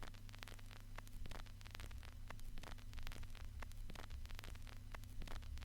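Vinyl record surface noise: irregular crackles and pops over a faint hiss and a steady low hum.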